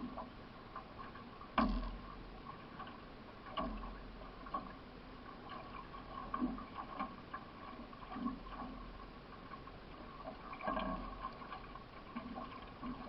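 Racing canoe paddle strokes: the blade catching and pulling through the water in irregular splashes about every one to two seconds, over a steady wash of water along the hull. There is a sharp knock about a second and a half in.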